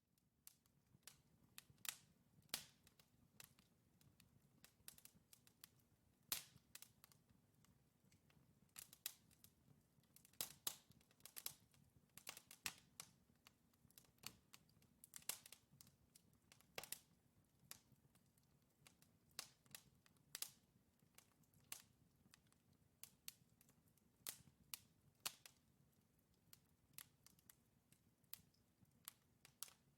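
Wood fire crackling in a fireplace: irregular sharp pops and snaps from burning logs, several a second at times, over a faint low rumble of flame. It starts abruptly after a brief silence.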